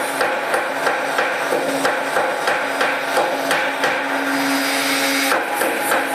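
Hammer striking metal in quick, irregular blows, several a second, over a steady hum.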